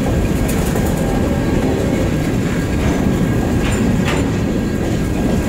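Freight cars (covered hoppers and boxcars) rolling past close by: a steady rumble of steel wheels on the rails, with a few sharp clicks from the wheels about half a second in and again around three to four seconds.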